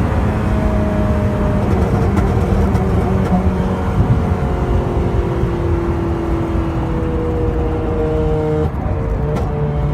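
2008 Honda Civic Si's 2.0-litre four-cylinder engine running through a header, test pipe and 2.5-inch cat-back with the stock muffler, a steady exhaust note that drifts slowly in pitch. Near the end the sound changes abruptly and the higher tones drop away.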